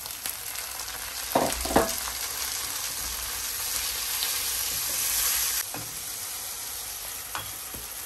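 Tomatoes and green chillies sizzling in hot oil with fried onion, garlic and ginger as the masala is stirred. The sizzle swells, then drops a little past halfway, and two knocks come about a second and a half in, with another near the end.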